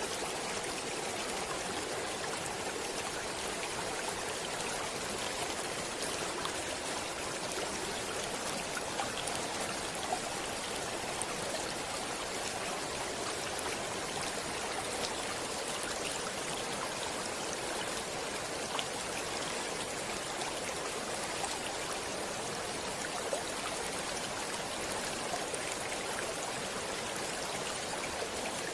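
A stream of water flowing steadily over rocks, an even rushing hiss with small splashes and drips flecked through it.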